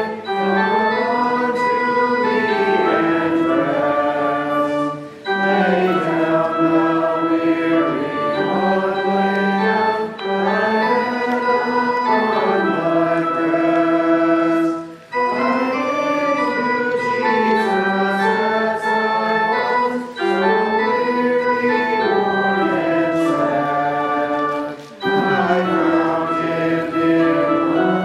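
Church organ accompanying a congregation singing a hymn, in phrases of about five seconds with short breaks between the lines.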